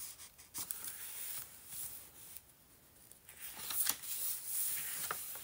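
Paper rustling and crinkling as the stiff, collaged pages of a handmade journal are handled and turned, in a few short rustles with a quieter pause around the middle.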